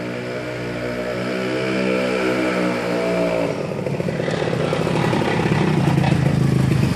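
Vespa scooter engine running with a steady note that climbs slowly, then about halfway through turns rougher, choppier and louder as it is revved.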